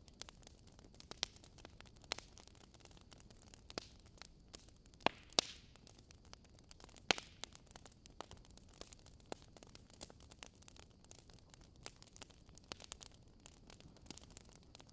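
Wood fire crackling: irregular sharp pops and snaps over a faint steady hiss, with the loudest pops about five and seven seconds in.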